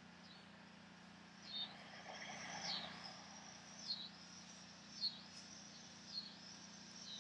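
Faint outdoor ambience: a bird giving short chirps about once a second, five in all, over a steady high insect buzz.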